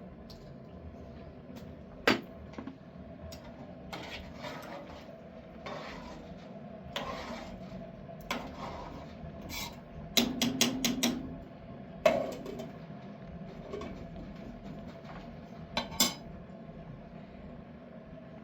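Dishes and utensils being handled: scattered sharp clinks and knocks, a quick run of clattering about ten seconds in, and softer scraping in between.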